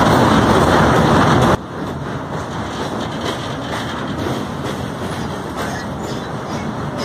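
Train running noise heard from on board while it crosses a steel truss railway bridge. The loud running noise drops suddenly about one and a half seconds in, then goes on steady and quieter.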